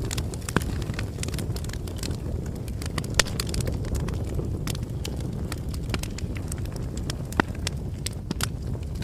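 Bonfire crackling: a steady low rumble of burning wood with frequent sharp pops and snaps, two single pops louder than the rest about three seconds and seven seconds in.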